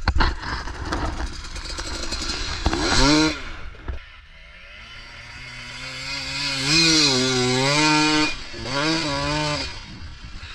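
KTM 300 two-stroke dirt bike engine revving as the bike climbs, its pitch rising and dipping several times and loudest from about six to nine seconds in. It is preceded by a few seconds of rumbling clatter.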